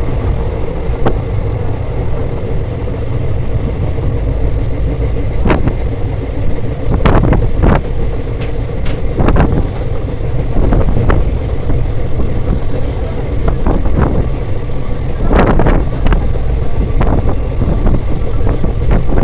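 Passenger train running: a steady low rumble with irregular sharp knocks and clanks.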